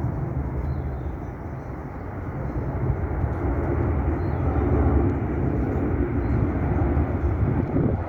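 Boeing 777 freighter's GE90 jet engines heard as a low, steady rumble on arrival, swelling to its loudest about halfway through.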